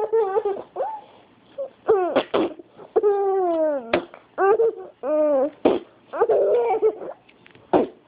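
Playful high-pitched vocal noises: a string of short squeals and hoots with sliding pitch, including one long falling call about three seconds in, mixed with a baby's laughter.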